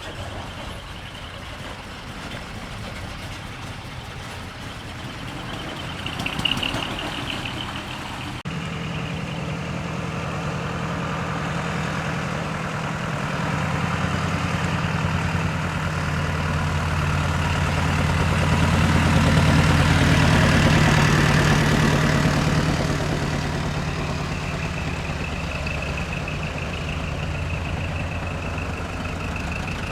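A heavy truck's diesel engine running, swelling louder from about a third of the way in, loudest around two-thirds through, then easing off as the truck moves away. A fast-pulsing high beep sounds briefly near the start and again through the last few seconds.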